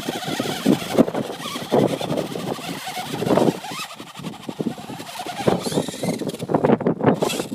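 Heavily loaded 1/14-scale RC truck driven at full throttle: its motor and drivetrain running with an uneven rattling clatter.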